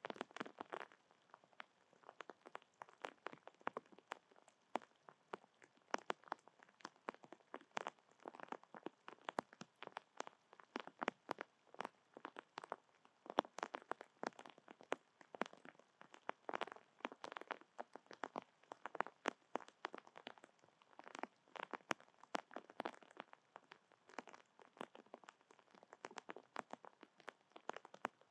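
A rapid, irregular patter of small clicks and crunches close to the microphone, in loose clusters.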